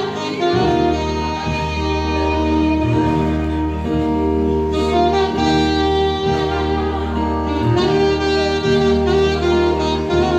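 Instrumental music with a saxophone playing the melody over a steady bass line.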